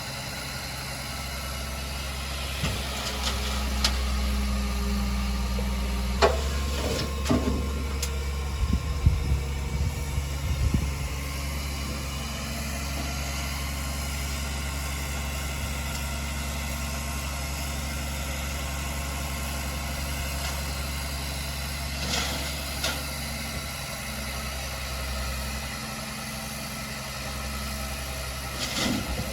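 Diesel engine of heavy earthmoving equipment running steadily, with a burst of metallic clanks and knocks about six to eleven seconds in and a few more later on.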